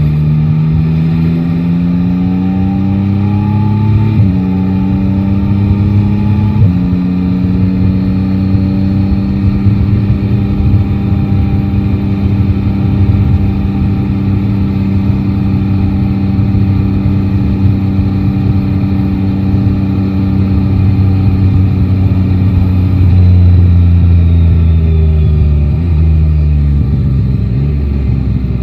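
Motorcycle inline-three engine pulling away through the gears, its note rising and dropping at two upshifts about 4 and 7 seconds in. It then holds a steady cruise, and near the end the note falls as the bike slows, with a downshift.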